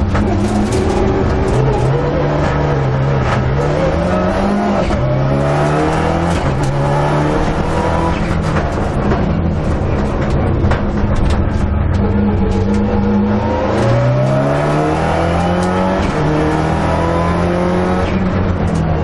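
Rally car engine heard from inside the cabin under hard acceleration, the revs climbing and then dropping back at each upshift, several times over, over steady road and tyre noise.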